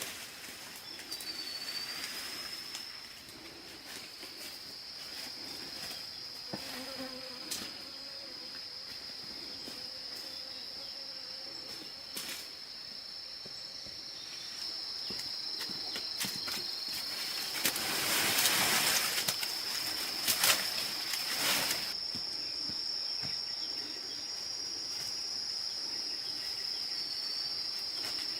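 Insects, such as crickets or cicadas, singing a steady high-pitched drone. Scattered sharp knocks sound over it, and a louder noisy rustle with a few knocks comes about two-thirds of the way through.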